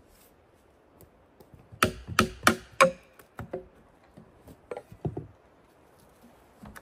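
A tool striking wood: four hard blows in quick succession, about three a second, followed by a scatter of lighter knocks.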